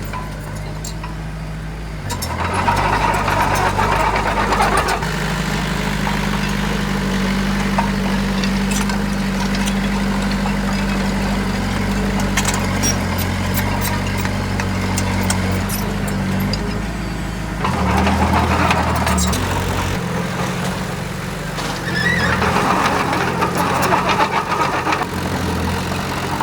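Diesel engine of a heavy construction machine running, its pitch stepping up and down as the load changes, with stretches of louder, rougher mechanical noise a few seconds in, about two-thirds of the way through and again near the end.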